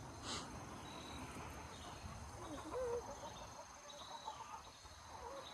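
Faint steady chirring of crickets, with a soft short hen's call about two and a half seconds in.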